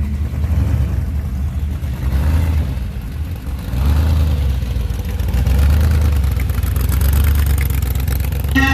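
Car engine rumbling at a low pitch and swelling a few times as it is revved.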